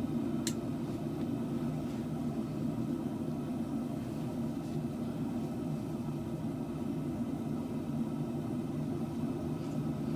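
Steady low mechanical hum, as of a motor or fan running, unchanging throughout, with one short sharp click about half a second in.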